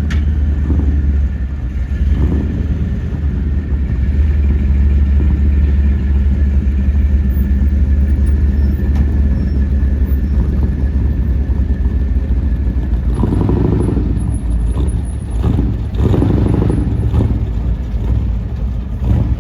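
A car engine running at idle with a deep, steady rumble. From about two-thirds of the way through, short pulses of higher-pitched sound come and go over it.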